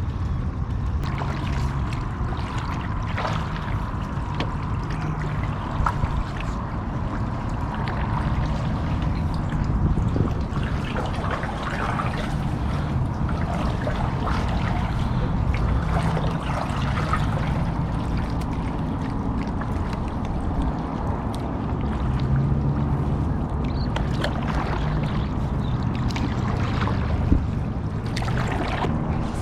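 Water trickling and splashing around a kayak, with many small splashes, over a steady low rumble.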